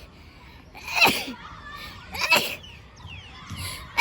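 A young child's short bursts of laughter, twice: about a second in and again a little past two seconds.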